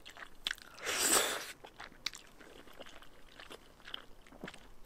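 Close-miked mouth sounds of a person eating spicy noodles and rice cakes: a short noisy slurp about a second in, then soft wet chewing clicks.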